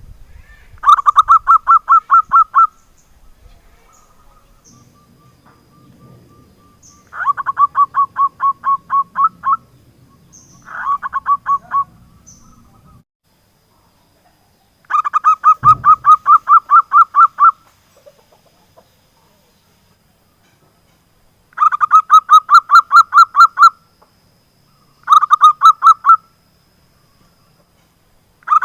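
Zebra dove (perkutut) calling: six bouts of quick, evenly repeated cooing notes, each bout lasting one to two and a half seconds, with pauses of a few seconds between them.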